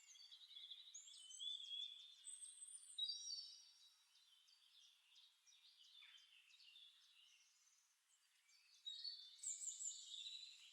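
Faint birdsong: chirps and short whistled phrases for the first few seconds, a near-silent stretch, then more chirping near the end.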